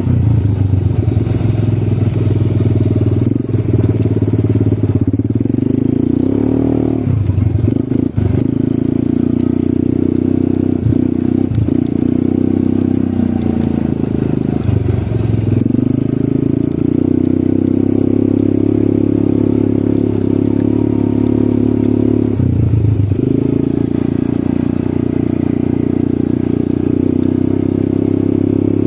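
ATV engine running steadily while riding, its pitch dropping and picking up again a few times as the throttle changes.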